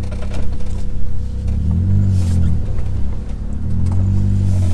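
Car engine accelerating hard, its pitch climbing and dropping back twice over a steady low rumble.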